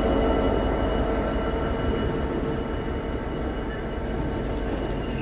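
Long container freight train rolling slowly past, its wagon wheels and brakes squealing steadily in several held high tones over a low rumble, as it slows to stop at a red signal.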